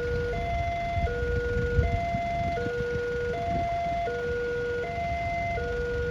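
Railway level-crossing warning alarm sounding as the barrier is lowered: two tones, a lower and a higher, alternate steadily, each held about three-quarters of a second. A low rumble of traffic or wind runs beneath, a little louder about a second in.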